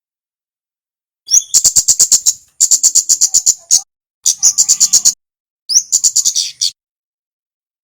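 Kemade songbird singing: four bursts of rapid, very high, sharp chattering notes, about eight a second, each burst lasting about a second, beginning about a second in.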